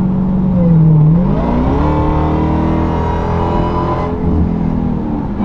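Supercharged 6.2-litre Hemi V8 of a 2023 Dodge Durango SRT Hellcat with its mufflers cut off, accelerating hard. About a second in the exhaust note and supercharger whine climb in pitch and hold. The high whine breaks off around four seconds in, and the pitch climbs again near the end.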